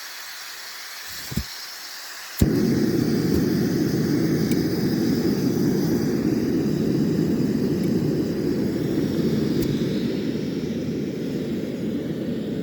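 Strong gale-force wind rushing against the microphone. It starts suddenly, loud, about two seconds in, after a fainter hiss.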